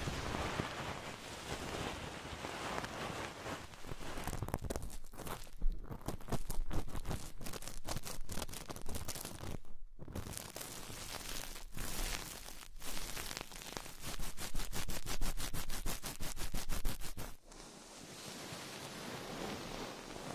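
Close-miked ASMR trigger sounds: a soft rustling hiss, then a run of quick scratchy strokes that settles into an even rattle of about ten a second and stops suddenly near the end, leaving a quieter hiss.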